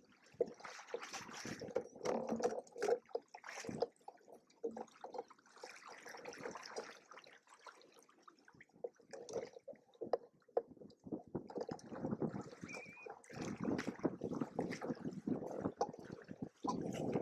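Water splashing and lapping irregularly against a sailing catamaran's hulls, louder for a stretch near the start and again in the last few seconds.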